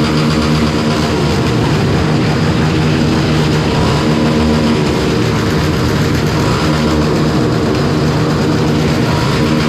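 Yamaha Lander 250 single-cylinder motorcycle engine running at a steady cruising speed, under a constant rushing noise.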